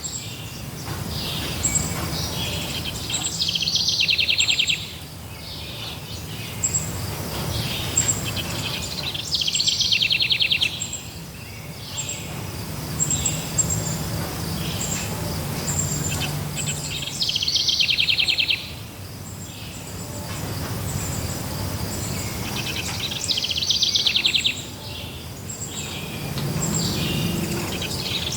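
Forest songbirds singing. A buzzy trilled phrase comes back every few seconds, with short high chirps all the way through, over a low steady background noise.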